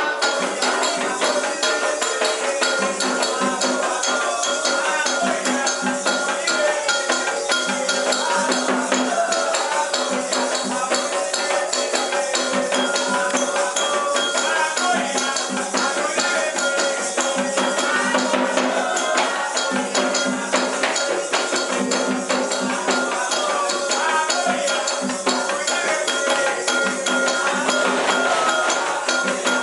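Candomblé ceremonial music: voices singing over fast, continuous shaken and struck percussion, without pause.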